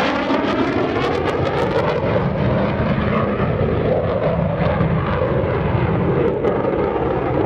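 Loud jet noise from an F-16C Fighting Falcon's General Electric F110 turbofan as the fighter maneuvers at an airshow. The tone shifts and phases as the aircraft moves, sweeping most in the first couple of seconds.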